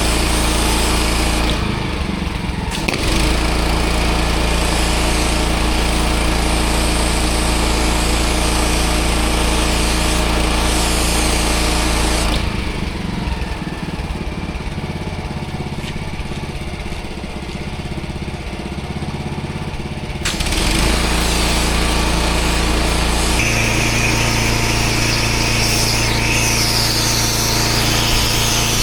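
Engine-driven pressure washer running steadily with the hiss of its water jet on block paving. The sound eases off briefly about two seconds in, then for several seconds in the middle, then returns at full strength.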